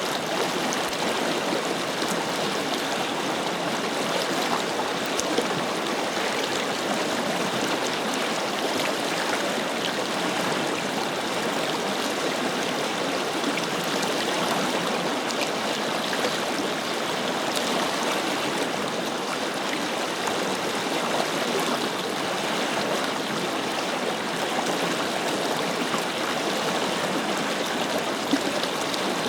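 Forest river flowing steadily over rocks: an even rush of water with small splashes and gurgles.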